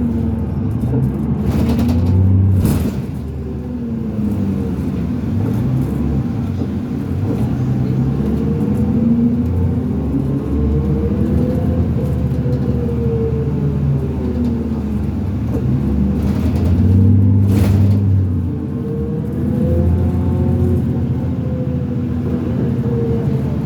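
2005 New Flyer D40LF bus's Cummins ISL diesel engine and ZF six-speed automatic under way, the pitch rising and falling again and again as the bus speeds up and eases off. Two short noises cut through, about 3 seconds in and near 18 seconds.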